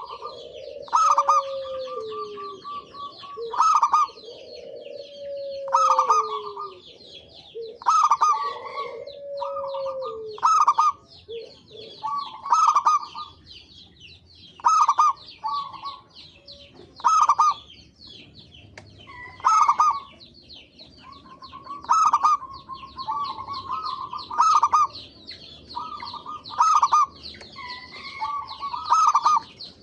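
Zebra doves (perkutut) calling repeatedly, one loud call every two to three seconds, with falling cooing notes in the first ten seconds. Higher chirping runs underneath throughout.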